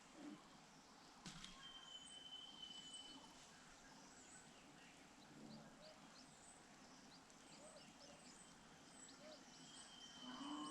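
Faint wild birdsong: one thin, held whistled note early on, then a run of short high chirps, with a single click about a second in.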